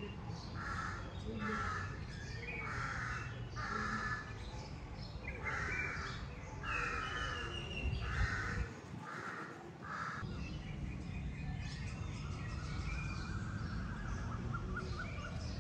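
A bird calling over and over, about ten short calls in the first ten seconds, with other birds chirping near the end.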